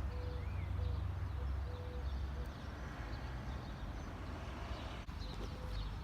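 Outdoor ambience with birds calling and a vehicle engine's low rumble that fades out about two seconds in.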